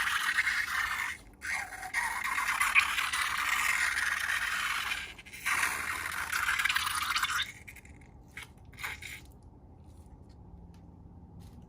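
Continuous scraping, crackling noise of slime being worked by hand, with two short breaks, stopping about seven seconds in; a few faint clicks follow.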